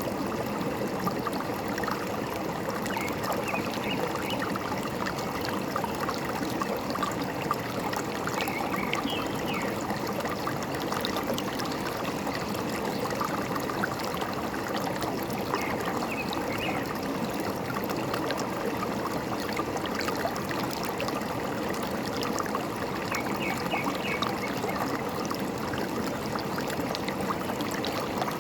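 Forest stream running and trickling steadily, with a few short bird chirps over it about three, nine, sixteen and twenty-three seconds in.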